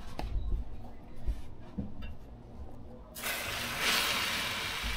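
A few low knocks and clicks, then about three seconds in food starts sizzling on a hot Blackstone griddle: a sudden, steady frying hiss.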